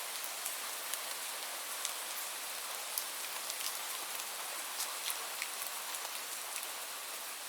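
Steady rain falling, an even hiss with many sharp, scattered drop taps.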